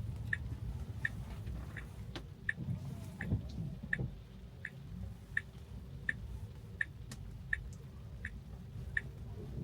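Tesla turn-signal indicator ticking evenly, about three ticks every two seconds, over the low rumble of road noise inside the car's cabin.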